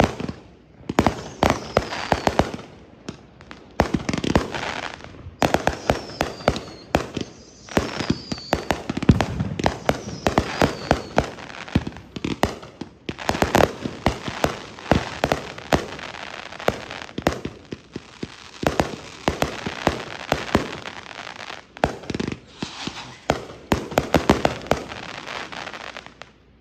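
Fireworks going off in quick succession: many sharp bangs and crackles overlapping, with several short falling whistles in the first half.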